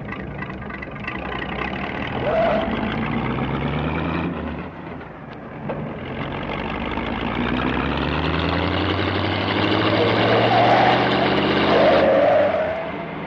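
Car engine accelerating: its pitch climbs for a few seconds, falls back about four to five seconds in, then climbs again through most of the rest.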